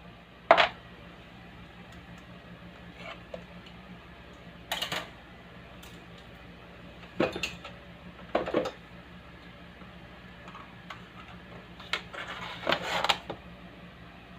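Irregular clacks and short clatters of small hard objects being handled and set down, the sharpest about half a second in and a rattling cluster near the end, over a faint steady low hum.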